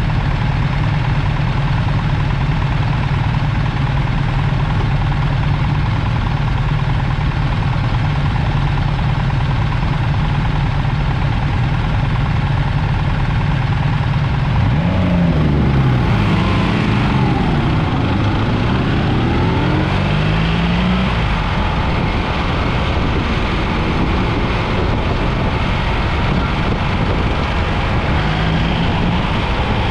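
BMW R 1300 GS boxer-twin motorcycle engine running steadily while riding, then about halfway through the engine note climbs in several rising sweeps as the bike accelerates, before settling again.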